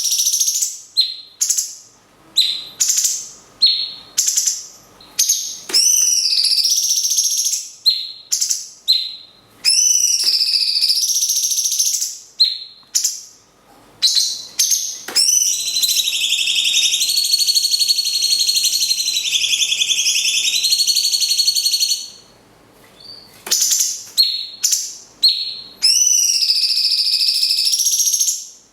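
Caged songbirds calling against each other: a lovebird's long, rapid trills (one held for about six seconds midway), alternating with short, sharp, high whistled notes from a cucak cungkok (light-vented bulbul).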